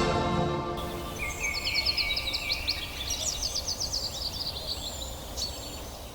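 Background music fading out in the first second, then a bird singing a fast run of repeated high chirping notes over a steady low background rumble.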